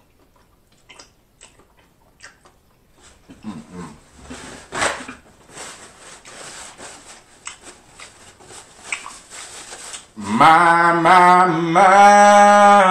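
Wet chewing and mouth clicks of a man eating seasoned lobster tail meat. About ten seconds in, a loud, drawn-out male vocal sound starts, wavering in pitch at first and then held on one note.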